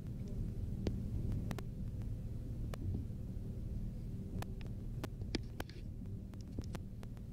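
Passenger train running: a steady low rumble and hum, with irregular sharp clicks and rattles.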